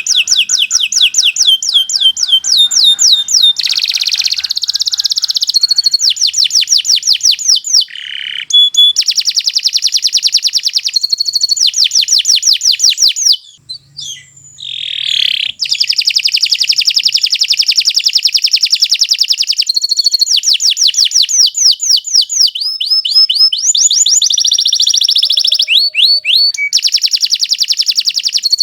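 Domestic canary singing a long, continuous song of rapid trills and repeated sweeping phrases, with a brief break about halfway through before it carries on.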